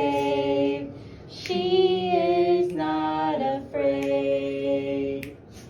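A high voice singing long, held notes, each about a second, stepping from one steady pitch to the next with short breaks between.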